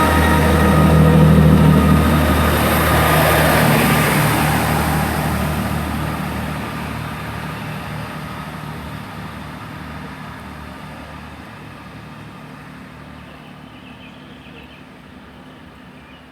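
A Chiltern Railways diesel train passes at speed, with engine drone and wheel noise. It is loudest in the first few seconds, then fades steadily as it moves away down the line.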